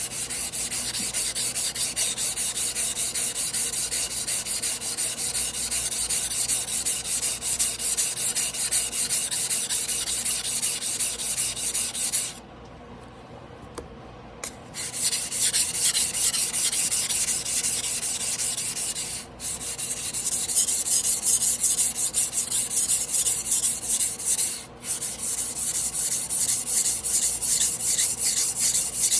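Tojiro Damascus carbon-steel yanagiba sashimi knife being hand-sharpened on a whetstone: quick back-and-forth strokes of the blade scraping across the stone. The strokes stop for about two seconds near the middle and pause briefly twice more later on.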